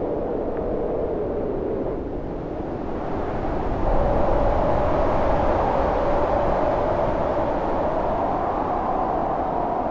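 Howling wind in a snowstorm: a steady rush with a wavering, moaning pitch that swells louder about four seconds in and then slowly eases.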